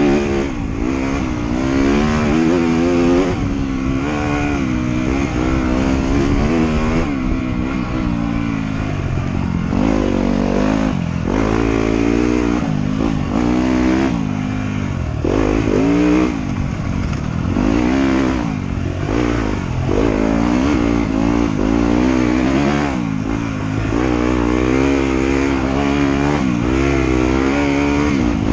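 Trail motorcycle engine being ridden hard, revving up and dropping back over and over every second or two as the throttle is worked and gears change.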